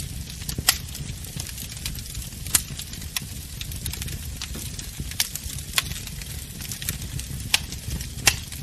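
Wood fire crackling in a fireplace: a steady low rumble and faint hiss with scattered sharp pops and snaps, a few of them louder than the rest.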